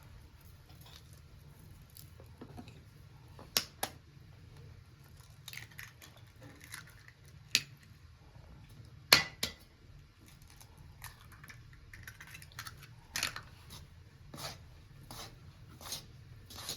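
Irregular sharp clicks and taps of hands working with small hard objects, with a few louder knocks among them, over a low steady hum.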